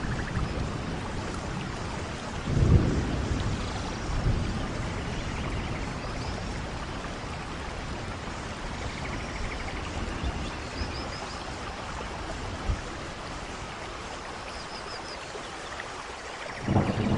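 Steady heavy rain falling, with a low roll of thunder about two and a half seconds in and another building near the end.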